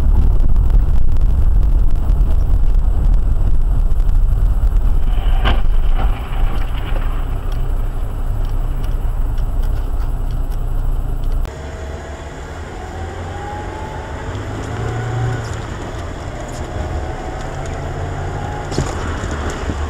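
Car road and engine noise recorded by a dashcam: a heavy steady low rumble. About eleven seconds in it cuts abruptly to quieter traffic sound with an engine tone that rises slowly.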